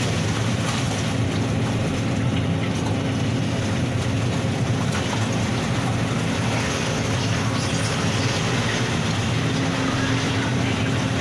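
Heavy diesel engine of construction machinery running steadily with an even low drone.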